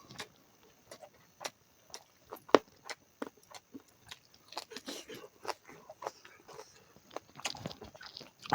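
Close-up chewing of pork leg: irregular mouth clicks and smacks, with one sharp click about two and a half seconds in.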